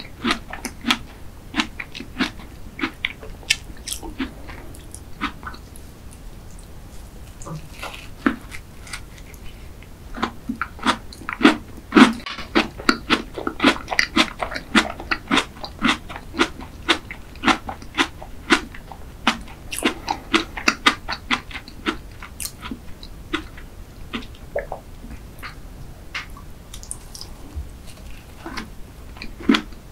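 Close-miked chewing of an Earl Grey chocolate tart: a steady run of wet mouth clicks and soft crunches, busiest through the middle, with a fresh bite into the tart near the end.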